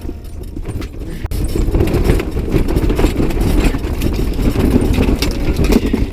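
Strong wind buffeting the microphone, with irregular knocks and handling bumps. The noise jumps louder about a second in.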